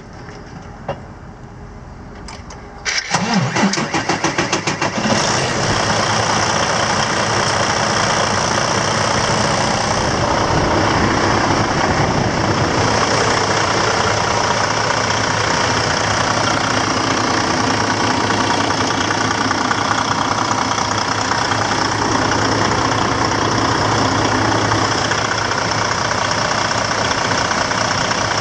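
An engine is cranked over by its starter for about two seconds, starting about three seconds in. It then fires and settles into steady idling.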